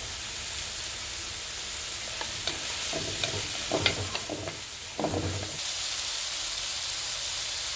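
Sliced tomatoes, onion and chili sizzling in oil in a frying pan, a steady hiss. A few light clicks and scrapes of stirring come through about halfway in.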